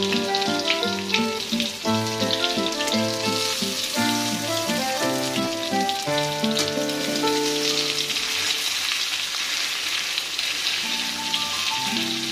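Chicken chapli kebabs sizzling as they shallow-fry in oil in a wok, with a steady crackling hiss. Background music plays over it, drops out about two thirds of the way through and comes back near the end.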